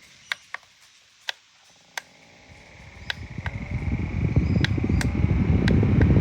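A small desk fan with a series of sharp clicks over a faint high motor whine. Then its airflow rushes up, growing steadily louder over the last few seconds.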